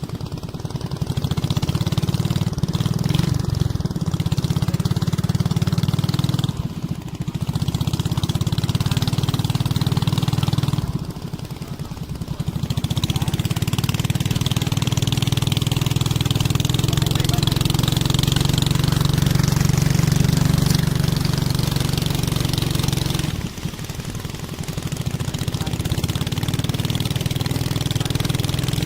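A boat's engine running steadily, easing off briefly three times and picking up again.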